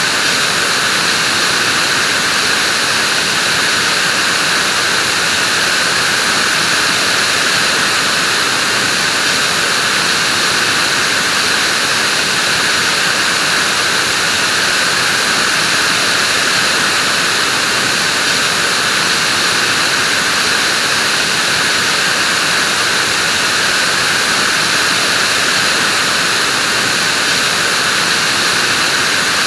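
Vacuum cleaner running steadily: a constant rushing hiss with a high whine, unchanging in pitch and level.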